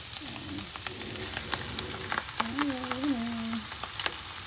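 Ham, mushrooms and onion sizzling in a frying pan, with scattered crackles and pops.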